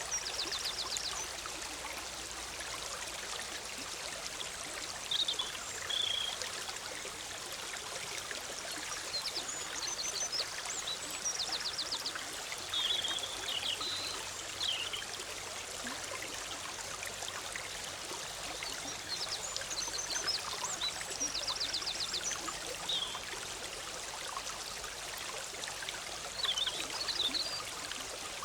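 Forest stream bubbling and flowing steadily, with small songbirds calling now and then over it: short chirps and quick rattling trills.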